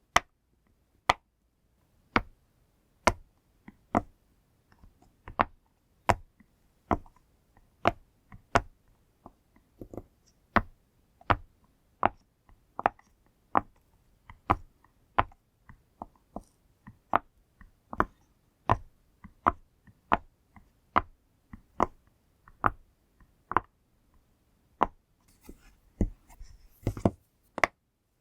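Pop-it fidget toy's bubbles being pressed one by one, each giving a sharp pop, about one or two a second at an uneven pace, with a quicker cluster of pops and some rustling near the end.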